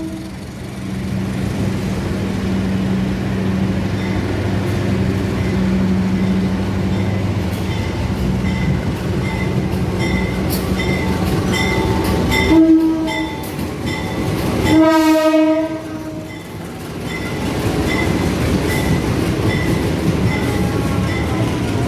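A train running through the station with a steady low rumble. It sounds its horn twice: a short blast about halfway through and a longer one about two seconds later. A regular light clicking runs through the second half.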